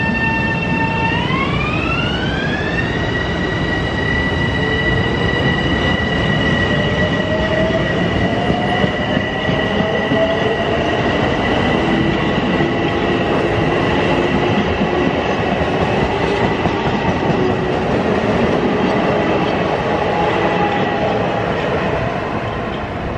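Electric commuter train accelerating away from the platform, its propulsion whining. A high whine glides up in pitch about a second in and then holds steady, while a lower motor tone climbs slowly as the train picks up speed over a rolling rumble. The sound drops off near the end.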